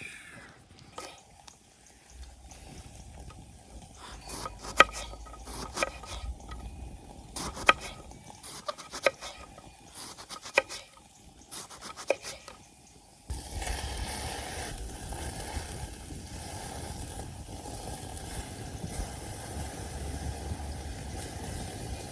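Scattered sharp clicks and knocks of utensils and dishes during food preparation, then, starting abruptly about thirteen seconds in, a steady hiss of rain.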